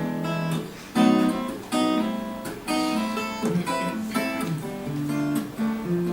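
Acoustic guitar strummed chords played as an instrumental break between sung verses, a new strum roughly every second.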